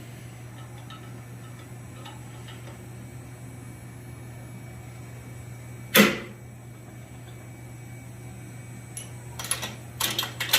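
Metal-on-metal strikes on forged steel: one sharp clank with a short ring about six seconds in, then a quick run of several clanks near the end, over a steady low hum.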